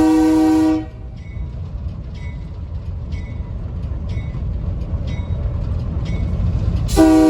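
Train horn blowing for a grade crossing: a steady blast that stops about a second in, then another that starts near the end. Between the blasts, the rail car rumbles along the track while a bell rings about once a second.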